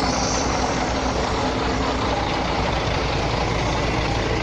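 Semi-truck's engine running steadily, a constant low hum under an even rushing noise.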